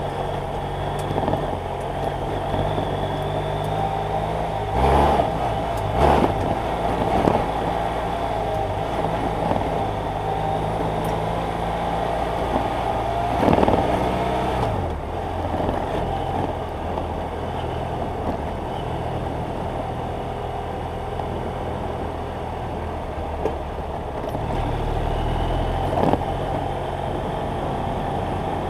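BMW F800GS Adventure motorcycle with its parallel-twin engine running while riding, the engine note changing a few times. Occasional sharp knocks cut through it.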